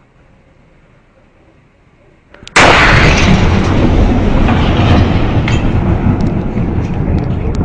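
Shock wave of the Chelyabinsk meteor airburst: a sudden very loud boom about two and a half seconds in, then a sustained rumble with scattered sharp cracks.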